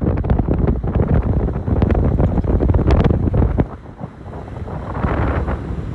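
Wind buffeting the microphone: a heavy, rough rumble with scattered clicks that drops off sharply a little over halfway through, then a softer rush of wind swelling again near the end.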